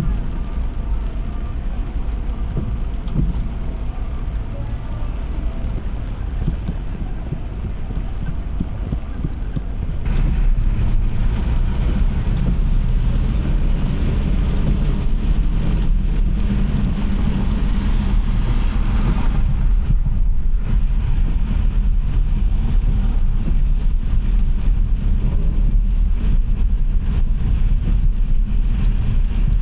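Car driving on a wet road in the rain: a steady low rumble of road and engine noise with tyre hiss. About ten seconds in it gets louder, with a stronger hiss of tyres on wet pavement that fades out again a little before the halfway mark, leaving the rumble.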